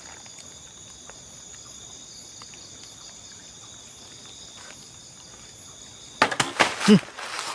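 A steady chorus of night insects, crickets trilling high and continuous. About six seconds in, loud rustling and knocking breaks in close by, with a brief falling squeak among it.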